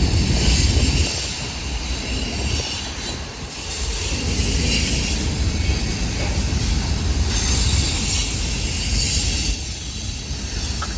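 Union Pacific freight train cars rolling past, wheels rumbling on the rails, with high-pitched wheel noise that swells and fades.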